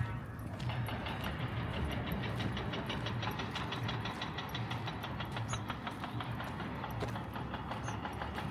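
An engine running steadily with a low, slowly pulsing rumble. A fast, even ticking goes with it through the first half.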